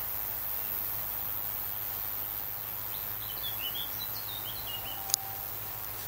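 Steady outdoor background noise, with a bird singing a short run of quick high chirps in the second half and a single sharp click just after.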